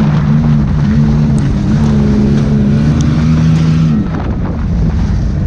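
Race car engine running hard on track, holding a steady pitch with a few brief dips, as when lifting off the throttle. The steady engine tone stops about four seconds in and gives way to rougher engine and road noise.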